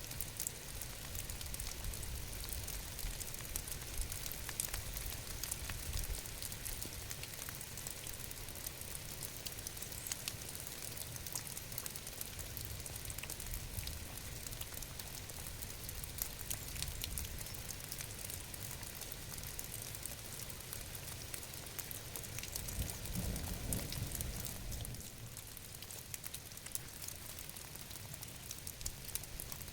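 Steady rain falling, with a dense patter of individual drops over a low rumble; the rumble swells briefly and then drops away about 25 seconds in, leaving lighter rain.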